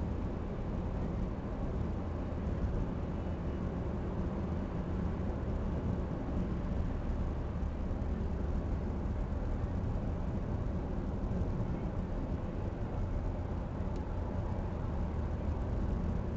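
Steady car engine and road noise from inside the cabin while driving, an even low rumble with no changes.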